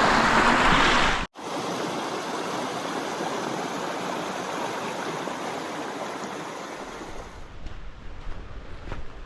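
A mountain creek's water running over rocks, loud at first, then cut off abruptly about a second in and followed by a quieter stretch of running water that fades toward the end.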